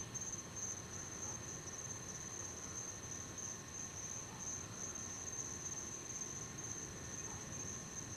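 Insects outdoors giving a steady, high-pitched trill that pulses slightly, over a faint low background hiss.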